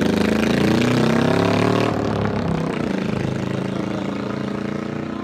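1971 Honda CB350's air-cooled parallel-twin engine revving as the motorcycle pulls away. Its note climbs for about two seconds, then grows steadily fainter as the bike rides off.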